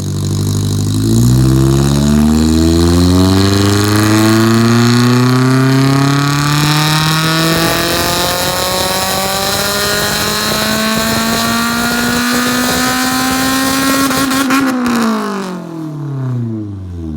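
2007 Honda S2000's 2.2-litre four-cylinder engine, breathing through a 3-inch header-back exhaust, loud in a full-throttle dyno pull. The revs climb steadily and unbroken for about fourteen seconds, then fall away near the end.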